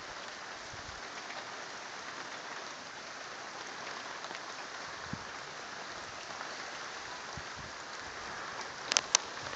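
Steady rain falling in an approaching thunderstorm, a constant even hiss. Two sharp taps come close together near the end.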